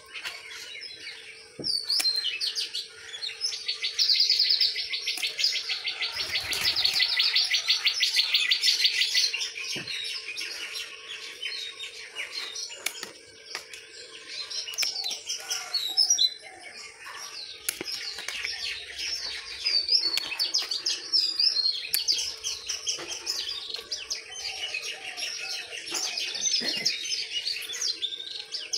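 Small birds chirping and twittering without a break, with a fast, even trill from about four to nine seconds in.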